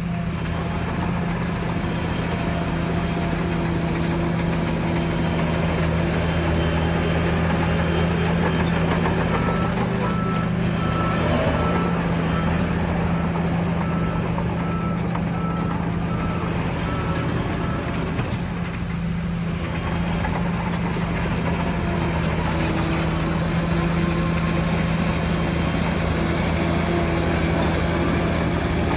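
Shantui bulldozer's diesel engine running steadily with a low drone under heavy machinery noise, while a reversing alarm beeps repeatedly from about nine seconds in to about seventeen seconds in.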